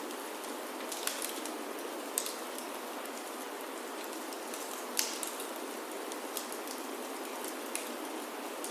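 Steady rain falling on a wooden chalet roof, with a few sharp, irregular pops from a crackling wood fire in a fireplace; the loudest pop comes about halfway through.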